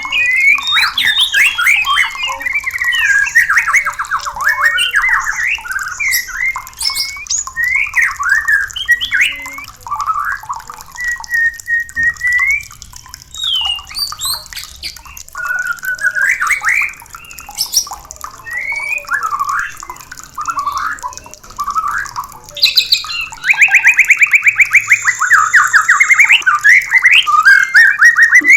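White-rumped shama singing: a continuous, fast run of varied whistles, slurs and warbles, with a rapid rattling churr about 23 seconds in that lasts a few seconds.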